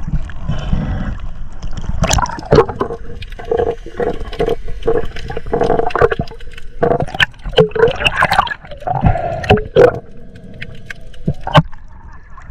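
Water sloshing and gurgling close to the microphone, with many irregular sharp clicks and knocks.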